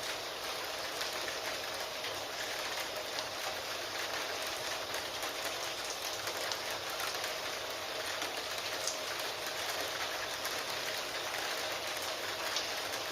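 Steady rain, an even hiss with many fine scattered ticks of drops. A faint steady tone lies underneath.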